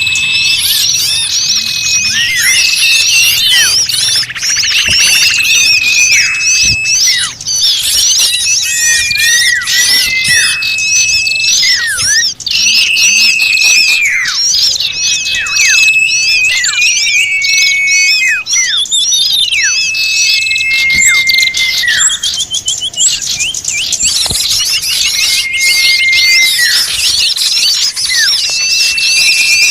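Many small birds calling together in an agitated, noisy chorus: a dense high chatter, with a clear whistled note that holds and then drops sharply, repeated every one to two seconds. This is a lure recording of small birds in commotion, played to draw other small birds in.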